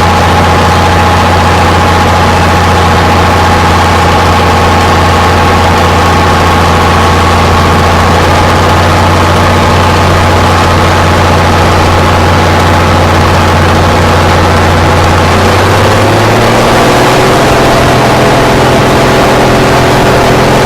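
A tractor-pull tractor's engine running loud and steady at one speed, its pitch stepping up slightly about sixteen seconds in.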